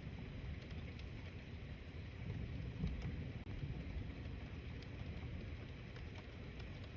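Thunderstorm ambience: a steady low rumble under a light hiss, with a few faint scattered ticks.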